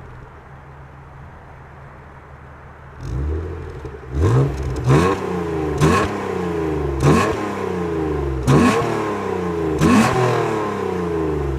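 BMW E36 328i's M52B28 straight-six, remapped and breathing through a K&N induction kit and the standard exhaust with its flap held open, idling and then revved in about six quick throttle blips. Each blip rises sharply and the revs fall back toward idle.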